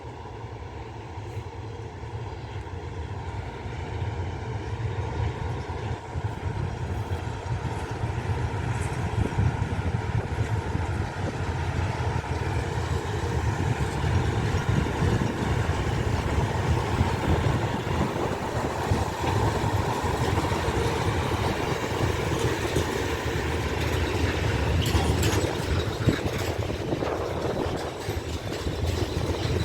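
Train running through a railway station, its rumble growing louder over the first few seconds and then holding steady.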